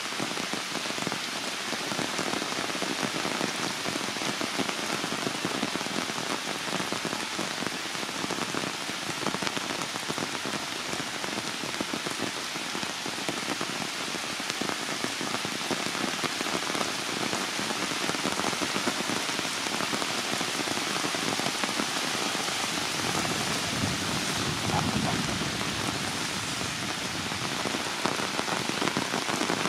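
Heavy rain falling steadily on tree leaves and branches, an even hiss of drops.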